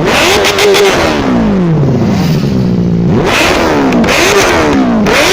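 Benelli TNT 600i's inline-four engine revved through its exhaust in repeated throttle blips, about four times, each rev jumping up quickly and falling away slowly.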